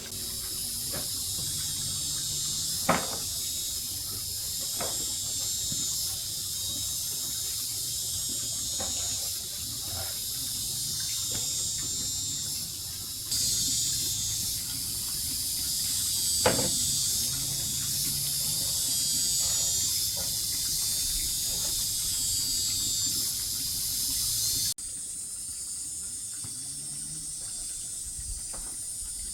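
A steady high hiss with scattered knocks and taps. The two sharpest knocks come about three seconds in and about halfway through.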